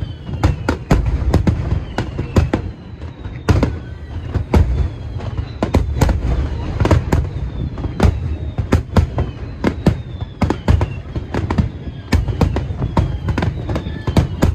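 Aerial fireworks going off in a dense barrage: many sharp cracks and bangs over a continuous low rumble of booms, with short falling whistles.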